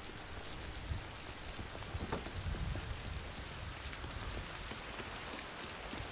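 Steady heavy rain falling and pattering on surfaces, with a few low thuds about a second in and again a little after two seconds.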